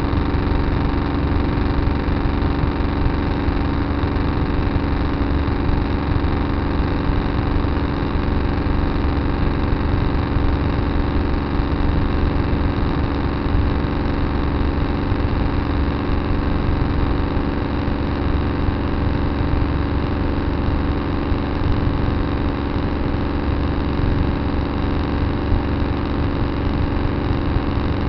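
Farm tractor engine running at a steady speed, a constant hum over a heavy low rumble with no change in pace.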